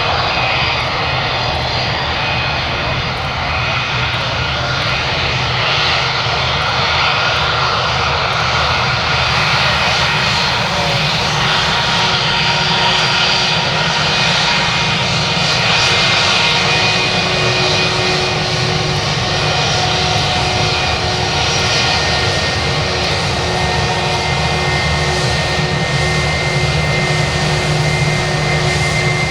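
Airbus A319 jet engines running, a loud steady noise with high whining tones held throughout.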